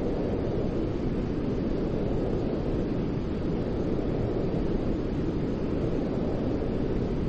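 Steady, unchanging white noise, deep and rumbling with little hiss at the top, like the hum of an aircraft cabin.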